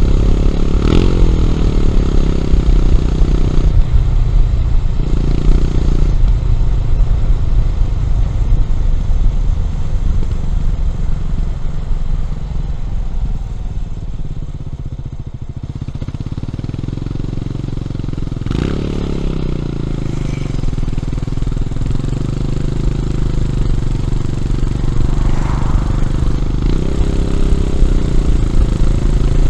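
Honda CB400SS's air-cooled single-cylinder engine through a Yamamoto aftermarket exhaust, heard while riding, with its pitch changing through shifts and throttle. It eases off to a lower, quieter note around the middle, then pulls again hard about eighteen seconds in and holds a steady note.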